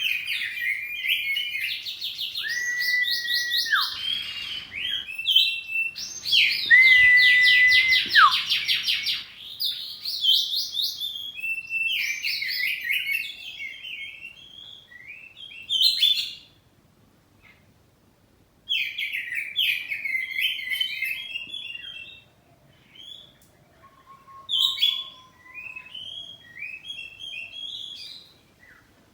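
Oriental magpie-robin singing a varied song of whistles and fast chattering trills. Twice it holds a steady whistle that drops away at the end, and the song breaks off for short pauses.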